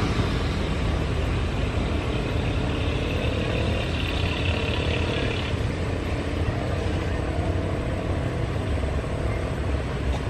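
Steady low rumble of jet aircraft engines, with a higher hiss swelling for a few seconds in the middle.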